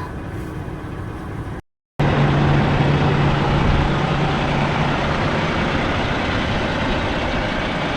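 Semi-truck engine and road noise heard from inside the cab, a steady drone. It is broken by a brief silence about a second and a half in, then comes back louder with a low hum that fades after a couple of seconds.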